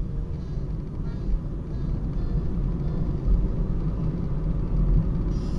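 Steady low rumble of a moving vehicle, engine and road noise as picked up by a dashcam.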